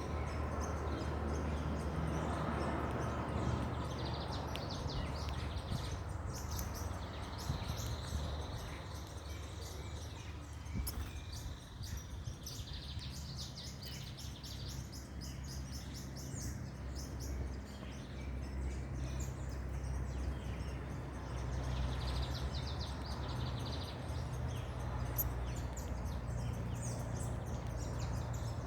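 Several small birds chirping and twittering in clusters of quick high notes, over a steady low rumble.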